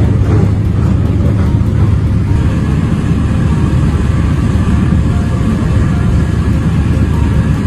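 Strong wind blasting across the microphone, a loud, steady low roar with no letup.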